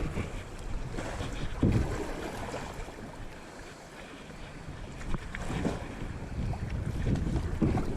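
Kayak paddling on a river: water splashing and sloshing with the paddle strokes, mixed with wind buffeting and rubbing noise on the GoPro's microphone.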